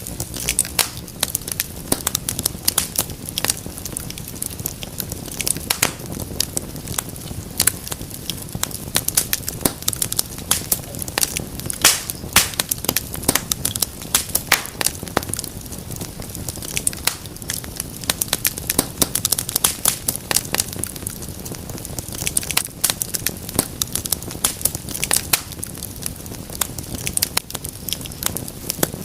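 Wood fire crackling in a fireplace: dense, irregular sharp pops and snaps over a low, steady rumble of burning.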